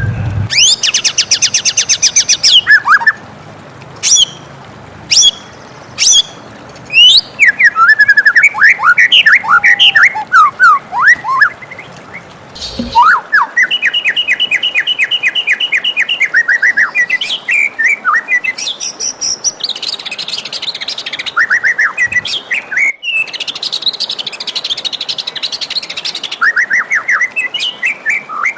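White-rumped shama (murai batu) singing a long, varied song: rapid trills, sharp single notes, quick falling whistles and runs of repeated notes, broken by short pauses.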